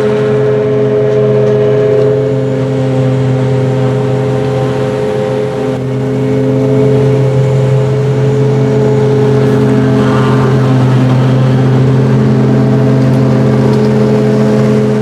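Heavy diesel engines of silage harvesting machinery running steadily at high load, a loud, even hum with a slight dip about five seconds in.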